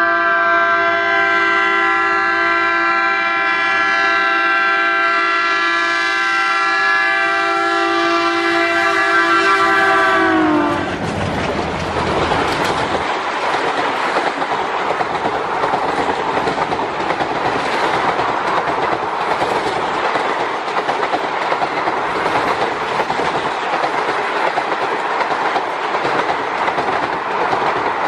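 An Indian Railways WDM diesel locomotive sounds a long, steady air-horn blast for about ten seconds. The horn's pitch drops sharply as the locomotive passes. Then comes the continuous rushing wheel-and-rail noise and clickety-clack of express-train coaches speeding by.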